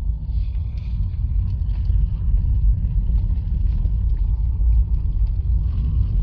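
Steady low rumble of a 2020 Honda Fit driving on a snowy road strewn with sand and stones, heard inside the car. Faint scattered ticks of grit sound under the tyres.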